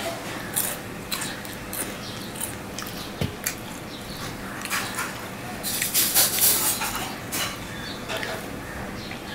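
Close-miked chewing and lip-smacking as a man eats a piece of jalebi by hand, short wet mouth clicks throughout, with a louder, denser run about six seconds in.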